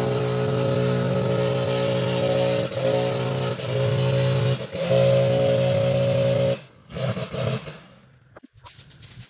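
Riding zero-turn lawn mower engine running steadily, dipping briefly twice, then cutting off suddenly about six and a half seconds in.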